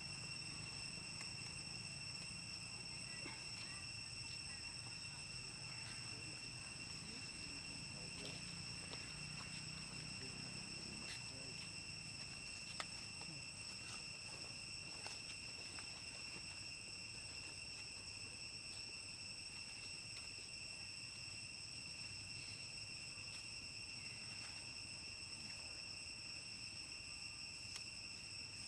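Faint, steady high-pitched drone of an insect chorus, such as crickets, over a low hum, with a few soft clicks; the sharpest click comes about thirteen seconds in.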